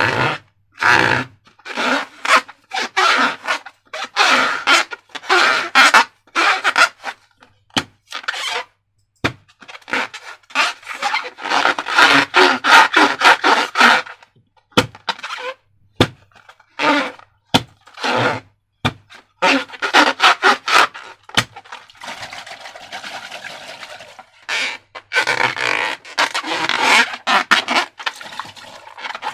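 Slime being handled and squished by hand: an irregular run of squelches with sharp clicks, easing into a steadier squishing stretch about two-thirds of the way through.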